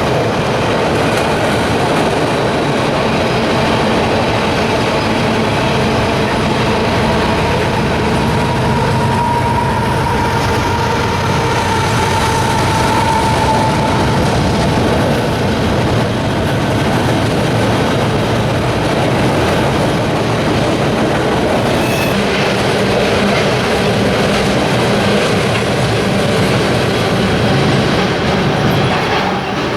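Freight train cars rolling past close by, a steady loud clatter of wheels on the rails, with a drawn-out wheel squeal about ten seconds in.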